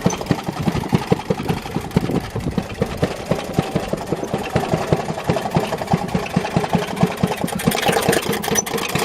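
Maytag Model 92 single-cylinder two-stroke engine running slowly with an uneven beat, its exhaust muffled through a bucket of water, so that it is quiet and sounds like it's just barely running; the engine does not like the water muffler.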